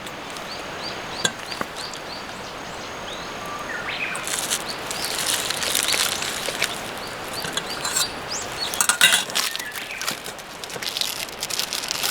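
A small bird chirping a quick run of short, high notes over steady outdoor background noise, followed later by a cluster of sharp clicks and crackles.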